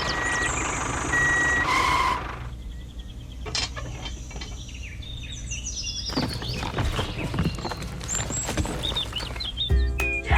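Two short electronic beeps, like a reversing alarm, in the first two seconds over a low engine rumble, then birds chirping.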